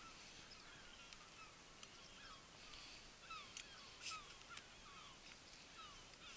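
Faint, repeated short downward chirps of small birds, coming irregularly several times a second, with a few light clicks and a brief rustle about four seconds in.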